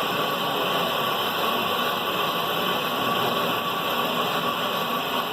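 Brake lathe running steadily, its cutting bit feeding across the spinning brake drum or rotor and taking another pass about 0.004 in deep. It gives an even hiss with a faint steady whine.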